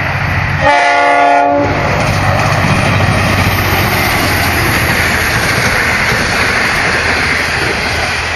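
A V/Line passenger train sounds its horn in one blast of about a second, shortly after the start, then passes with a steady running noise.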